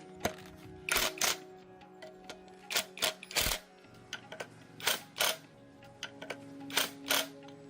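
Irregular sharp clicks and knocks, a dozen or so at uneven spacing, over steady background music.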